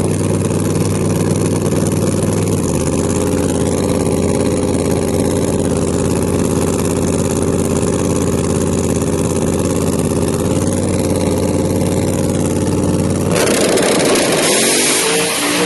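Drag car engine running at a steady high idle, its pitch stepping down slightly about two and a half seconds in. About 13 seconds in it jumps suddenly to full throttle, as on a launch, and its pitch climbs near the end.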